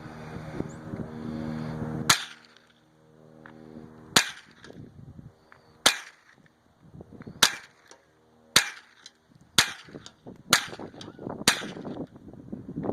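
Eight rifle shots fired in one string, the first about two seconds in, coming quicker toward the end: from about two seconds apart down to under a second. A steady hum runs under the first two seconds.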